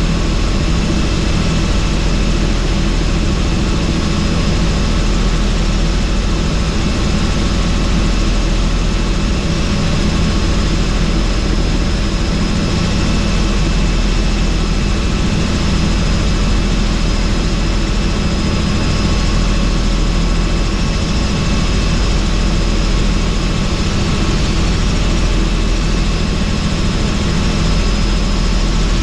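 Helicopter in flight with the doors off, heard from inside the cabin: steady engine and rotor noise, a deep drone with faint thin high whines on top, unchanging throughout.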